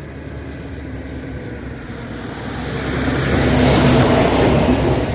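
A road vehicle driving past, its engine and tyre noise growing louder to a peak about four seconds in, then fading away.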